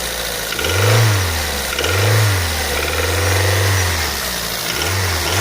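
Daihatsu Pyzar engine being blipped up from idle again and again, its pitch rising and falling about once a second with one longer hold near the middle, while it runs with the knock it is being checked for.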